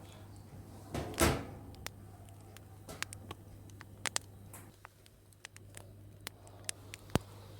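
Household handling sounds: scattered small clicks and knocks, with one louder sliding or brushing sound about a second in, over a low steady hum.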